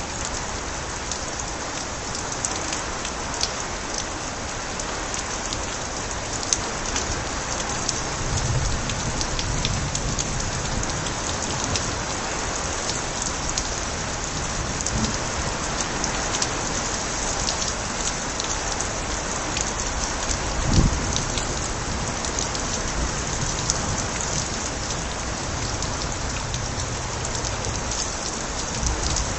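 Steady heavy rain, with water spilling from overflowing gutters and many sharp drips and splashes. A few brief low rumbles come and go, and a single low thump sounds about two-thirds of the way in.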